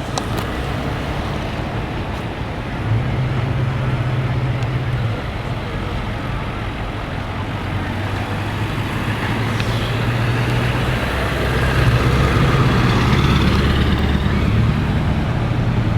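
Road vehicle running, its engine's low hum stepping up and down in pitch over steady road noise, which grows louder in the second half.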